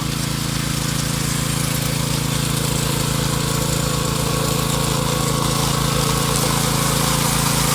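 Power trowel's engine running steadily while it finishes a concrete floor dressed with colour hardener.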